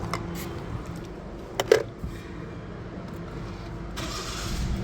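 Toyota Vitz engine running steadily with a low hum, with two sharp clicks about a second and a half in and a louder hiss-like rise near the end.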